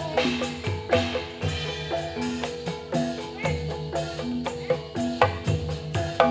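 Instrumental passage of gedruk dance music: drum strokes and short struck metallophone notes in a steady, repeating rhythm.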